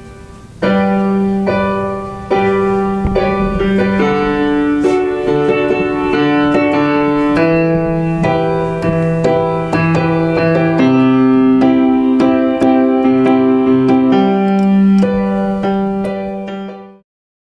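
Keyboard with a piano sound playing slow, sustained chords, a new chord about every second and a half, that cut off suddenly near the end.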